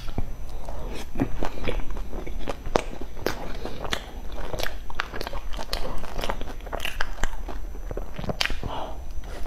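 Close-miked biting and chewing of a cream-filled bun coated in meat floss and seaweed flakes: a steady run of irregular soft crunches, crackles and mouth clicks.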